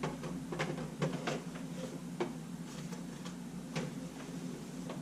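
A few light clicks and knocks of camera bodies and small parts being handled and set down on a workbench, over a steady low hum.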